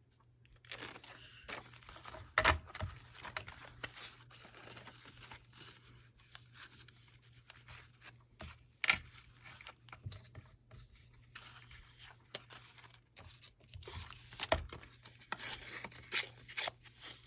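Paper being handled: rustling and crinkling of sheets and paper doilies, with scattered small clicks and a few sharper knocks about two and a half, nine and fourteen and a half seconds in, over a faint steady low hum.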